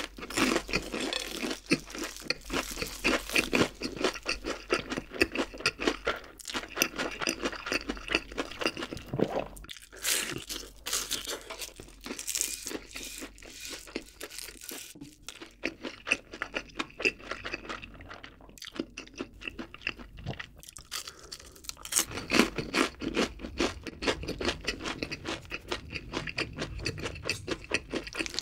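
Close-miked chewing of a crispy breaded pork loin cutlet (donkatsu): rapid, repeated crunches of the fried crust, one after another, with the crunching loudest just after the bite and again past the halfway point.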